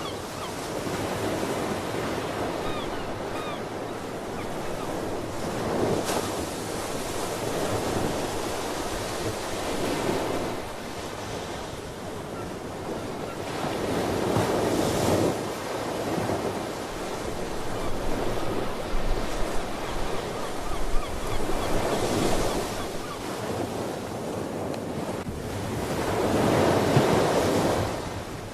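Ocean surf washing in and out, the rushing noise swelling and easing every few seconds as waves break, with wind blowing over it.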